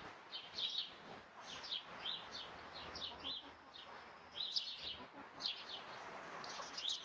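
Birds chirping: short, high chirps repeated several times a second in irregular clusters.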